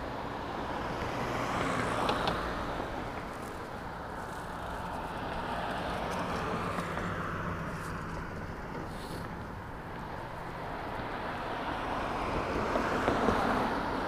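Cars passing on a busy city street, the traffic noise swelling and fading several times as vehicles go by, with a low steady engine hum under the first part.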